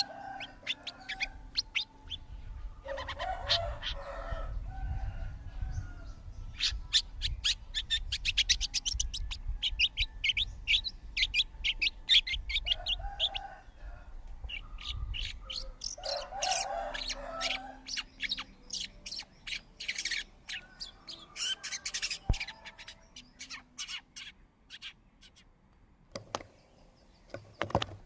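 Small birds chirping in fast runs of short, high chirps, with a few lower, harsher calls between the runs over a low rumble.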